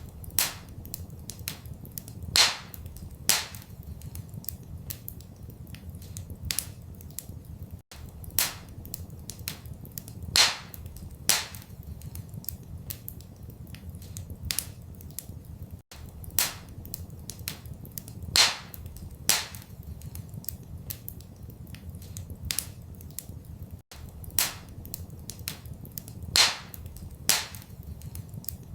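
Wood fire crackling in a fireplace: irregular sharp pops and snaps, a few much louder than the rest, over a steady low rumble. The same eight-second stretch repeats as a loop, with a brief gap between repeats.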